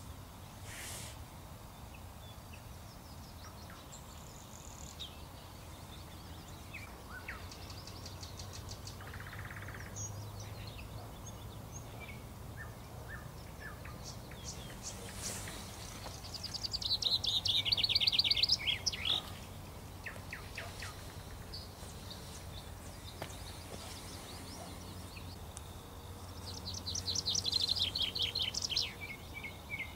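A songbird singing twice, each song a quick run of notes falling in pitch and lasting about two seconds, the second near the end, with scattered short chirps between, over a steady low background rumble.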